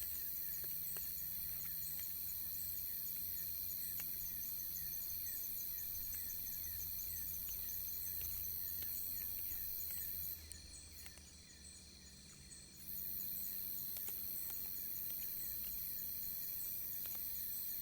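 Chorus of trilling insects: a high, steady drone with several steady lower tones, and faint, short chirps repeating beneath. The highest and loudest trill stops for about two and a half seconds past the middle, then starts again abruptly.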